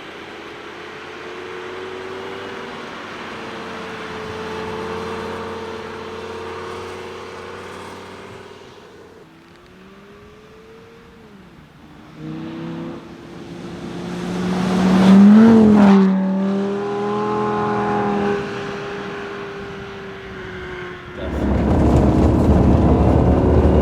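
Lamborghini Gallardo's V10 engine running as the car drives, the pitch dipping and climbing through gear changes. It is loudest about fifteen seconds in, its pitch rising then falling as it passes close by, and a louder steady rush of engine and road noise starts near the end.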